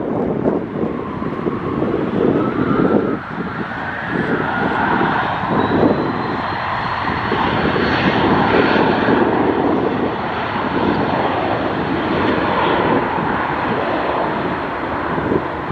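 Airplane's turbine engines running with a high whine that slowly rises in pitch. Wind gusts buffet the microphone underneath.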